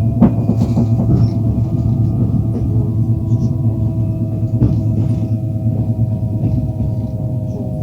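Passenger train running along the track: steady low rumble of wheels on rails, with scattered clicks and knocks and a few steady ringing metallic tones over it.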